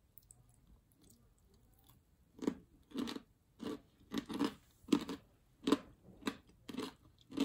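A person chewing crispy breaded fried food close to the microphone, starting about two seconds in, at a steady pace of about two chews a second.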